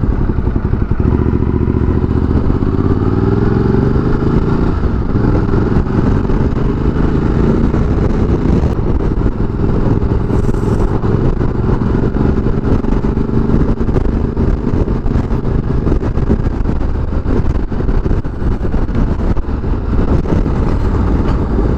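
Ducati Multistrada 1200S V-twin engine under way, heard from the rider's position: the revs climb twice in the first several seconds, then hold fairly steady. Strong headwind rushes over the microphone.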